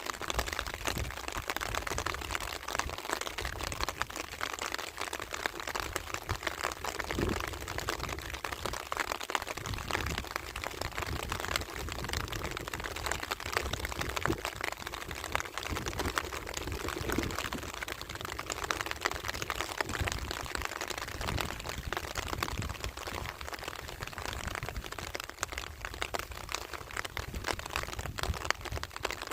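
Steady rain falling: a dense, even patter of many drops, with a few heavier drops standing out now and then.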